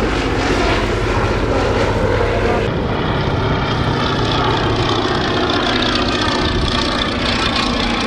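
Fairey Swordfish biplane's Bristol Pegasus nine-cylinder radial engine and propeller drone steadily as it flies past in its display.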